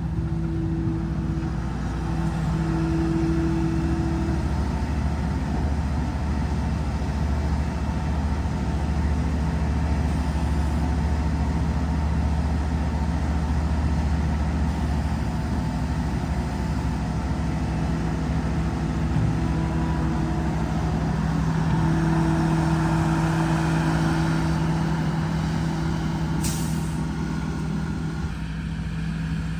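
Skid loader engine running steadily, its pitch rising a little for a few seconds twice as it works, with a brief hiss near the end.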